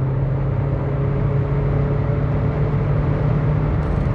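Seat Ibiza's TDI turbodiesel engine on its stock exhaust, heard from inside the cabin, pulling hard under acceleration at highway speed as a steady low drone over road noise.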